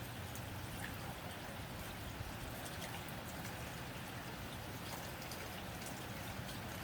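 Steady rain on a tin roof: an even rush of rainfall with many scattered sharper drop ticks on the metal.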